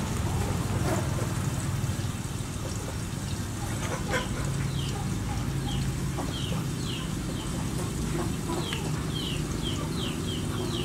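Birds chirping: short falling chirps, repeated many times from about halfway through, over a steady low rumble, with a single knock a little before the chirping starts.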